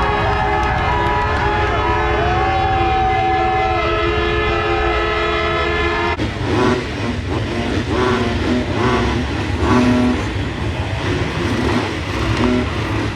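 A pack of 250cc four-stroke motocross bikes revving together, their held engine notes stacking into a steady chord with some revs rising and falling. About six seconds in the sound cuts abruptly to engines surging in repeated pulses as bikes race past.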